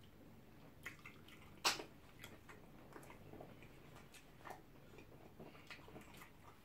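Close-miked eating sounds: scattered wet mouth smacks and soft chewing of pounded yam with slimy ogbono soup, the sharpest smack just under two seconds in.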